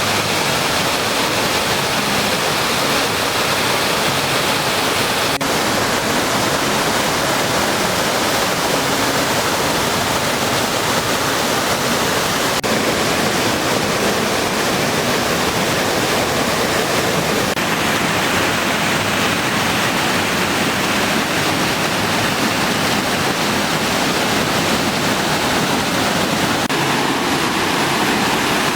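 Loud, steady rush of fast-flowing whitewater.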